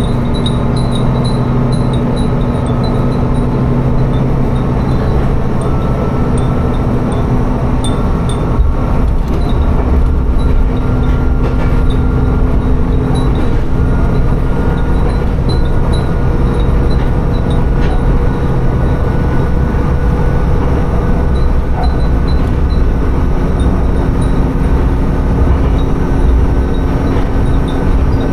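Tsugaru Railway diesel railcar running along the line, heard from inside the car: a steady engine drone over the rumble of the wheels on the rails. Short high tinkles come and go from the wind chimes hung in the car.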